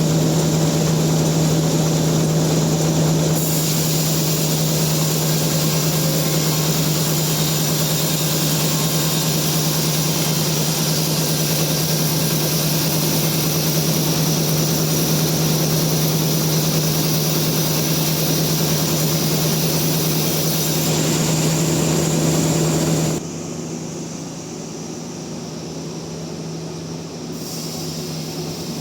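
Sawmill saw running with a steady hum and a loud hiss. About 23 seconds in the sound drops sharply, leaving a quieter hum.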